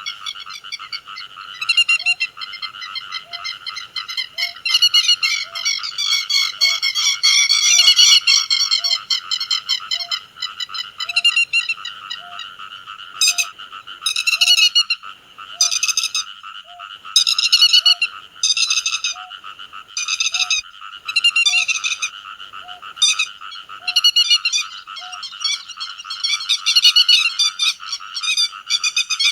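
Grey-headed lapwing calls in repeated short bursts over a steady chorus of frogs, with a faint low note repeating about once a second.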